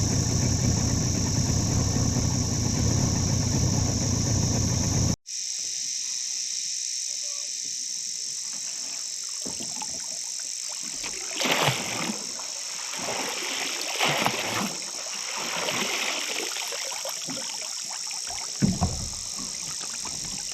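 A small boat's outboard motor running, which cuts off abruptly after about five seconds. It is followed by a steady high insect drone with scattered water splashes and knocks against the boat.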